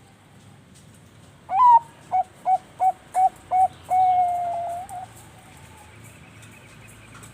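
A Bangkok-strain perkutut (zebra dove) singing its contest song: a loud opening note, five short quick coos, then one long drawn-out final note that sinks slightly in pitch.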